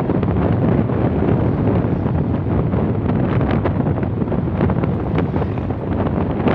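Steady wind rush buffeting the microphone of a camera travelling along a highway, mixed with road and engine noise.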